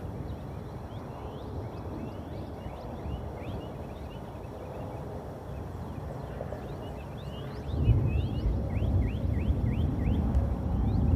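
Many short, high birdlike chirps repeating irregularly over a steady low rumbling noise, which gets louder about eight seconds in.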